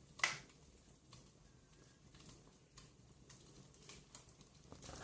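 Wood fire in a fireplace crackling, with scattered small pops and one sharper crack about a quarter second in.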